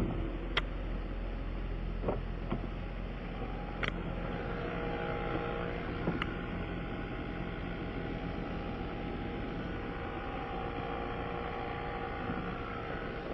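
A car engine running steadily at low speed as the vehicle backs up, with a few light clicks.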